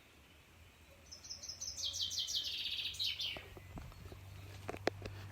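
A songbird singing one fast descending trill, a run of quick high notes stepping down in pitch over about two seconds. A few light clicks follow near the end.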